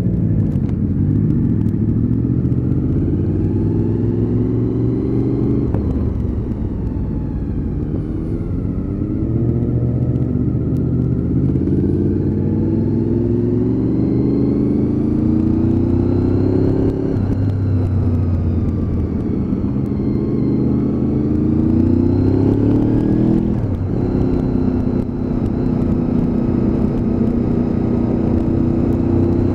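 Honda VFR800's V4 engine pulling hard through the gears: its pitch climbs, drops back at each upshift about four times, then holds fairly steady near the end.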